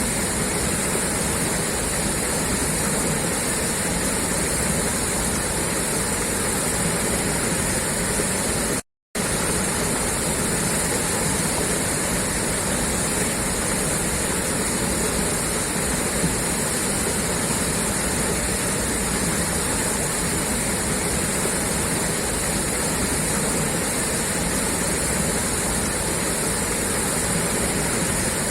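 Water gushing steadily out of a pipe outlet, a continuous even rush. It cuts out for a fraction of a second about nine seconds in.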